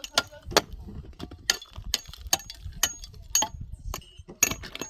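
An irregular run of sharp clinks and knocks of hard objects, about two or three a second, some with a short metallic ring.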